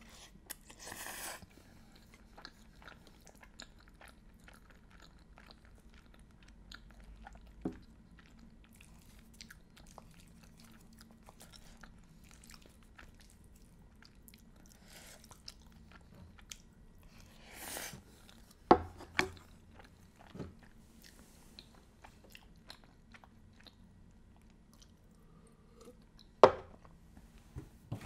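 Close-miked eating sounds: a person chewing and biting pasta with many small mouth clicks, and a short slurp about a second in and another just past the middle. A few sharp knocks come a little later and near the end.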